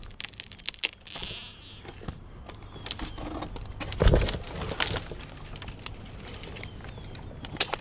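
Sawn section of a pine trunk breaking off its hinge: scattered sharp snaps and cracks of wood, with one louder crack about four seconds in.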